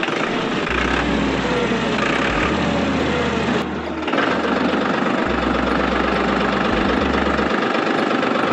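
Small motor-driven DIY model tractor running with a steady mechanical rattle and whir, with a brief break about four seconds in.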